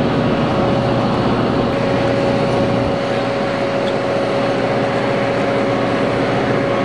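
Steady engine-like drone with a constant hum, unchanging in level and pitch.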